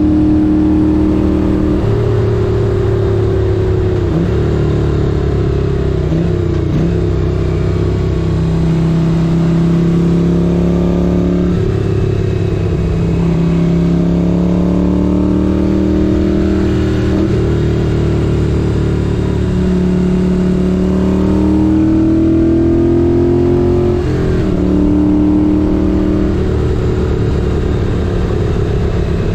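1978 Moto Guzzi 850 Le Mans's air-cooled V-twin engine running under way, its pitch rising and falling with the throttle. The engine note dips briefly about six times and climbs again.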